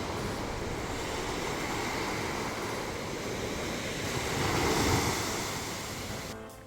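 Sea surf washing onto a beach: a steady rushing that swells into a louder wave about four to five seconds in, then cuts off abruptly near the end.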